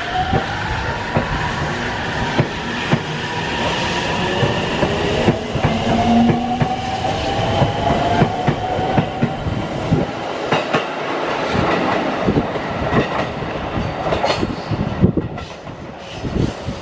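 Train running past, its wheels clattering over rail joints in dense, irregular knocks, with high squealing tones gliding in pitch over the first half.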